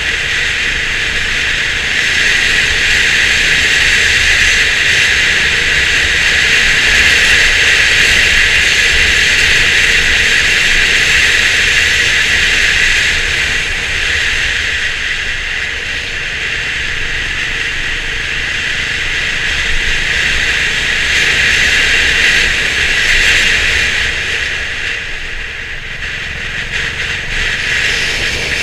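Honda CB350 RS's single-cylinder engine running steadily under way, mixed with a loud steady rush of wind and road noise.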